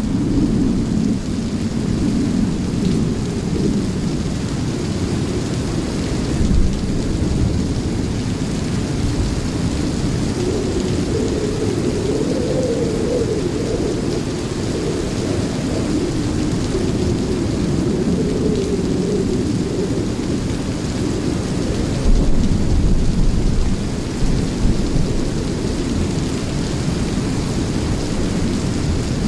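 Thunderstorm sound: steady rain hiss under a continuous low rumble of thunder, swelling louder about three-quarters of the way through.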